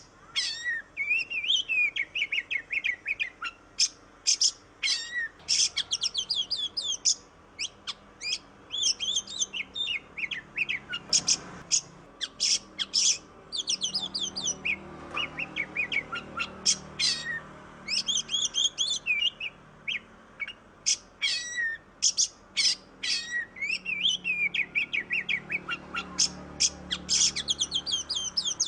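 Oriental magpie-robin (kacer) singing in quick, varied bursts of whistled glides and rapid chattering trills with short pauses between phrases. It is the agitated song played to provoke a quiet caged kacer into singing.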